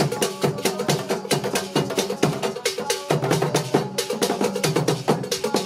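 Drum-led percussion music: fast, dense strikes several times a second over a pitched melodic line.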